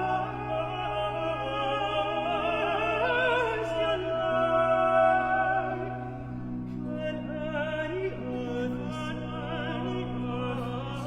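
Baroque vocal trio of alto, tenor and bass singing with vibrato over a sustained continuo bass line.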